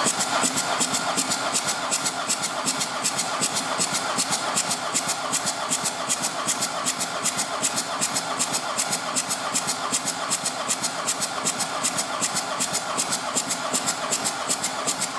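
Volkswagen 1.4 TDI three-cylinder diesel engine (AMF) running on a test stand, with a steady, even rhythmic diesel clatter.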